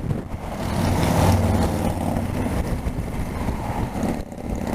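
Motorcycle engine running at steady road speed, with wind and road noise; it grows a little louder about a second in.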